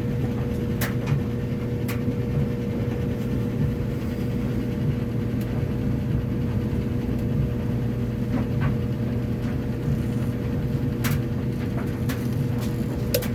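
Kenmore washing machine running with a steady motor hum and a thin high tone, with a few light clicks.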